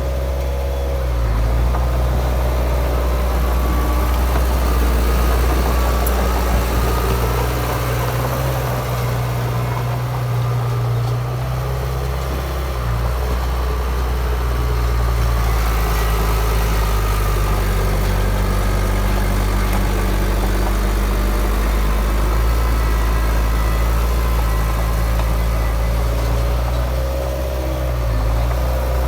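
Heavy diesel engine of earthmoving machinery running steadily, its low drone shifting in pitch a few times as the load changes.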